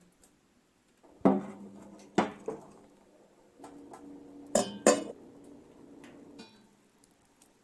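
Metal objects knocking together about five times, each knock leaving a short ringing tone, like pots and pans being handled.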